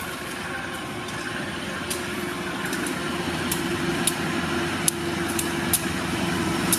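Diesel train engine running with a steady hum that slowly grows louder, with sharp clicks from about two seconds in.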